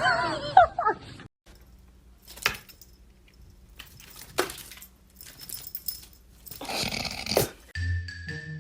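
A dog whining in a high, wavering cry for about a second, followed by a few sharp knocks and a rustling scrape, and steady tones near the end.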